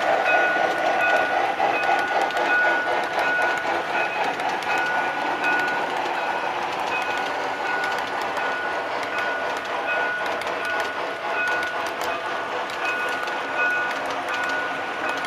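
Model Southern Pacific AC-12 cab-forward steam locomotive and its freight cars rolling along layout track: a steady running rumble with rapid fine clicking from the wheels. A short high tone repeats about every half second throughout.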